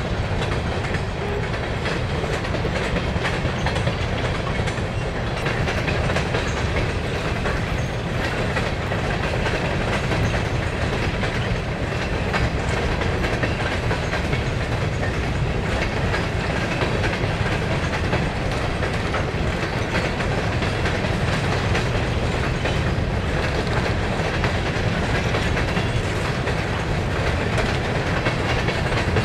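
A train of Herzog ballast hopper cars rolling past, their steel wheels giving a steady rumble with clickety-clack over the rail joints.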